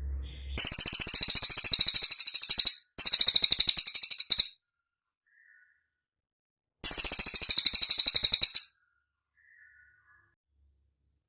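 A cililin bird singing three bursts of very rapid, high-pitched trilled notes, each about one and a half to two seconds long, with faint short calls in the pauses between them.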